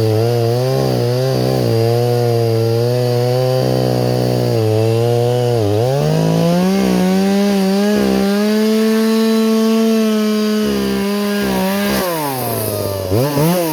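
Two-stroke chainsaw cutting wood, its engine speed sagging and recovering under load, then held high for a few seconds. Near the end it drops back to idle and is briefly revved twice.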